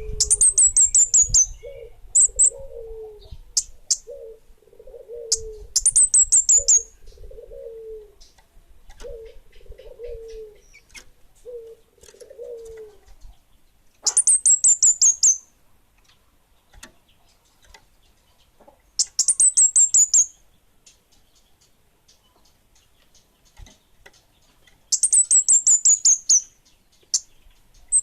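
Kemade bunga api songbird singing: rapid, high, descending trills of about a second and a half each, repeated about every five seconds. Softer low falling calls repeat underneath through the first half.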